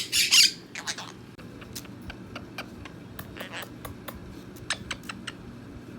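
Quaker parrot giving a short harsh squawk, then a scattering of soft beak clicks and ticks.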